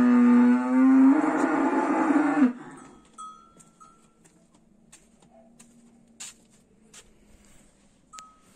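A cow's long, loud moo that steps up slightly in pitch about a second in and ends about two and a half seconds in. A few faint clicks follow.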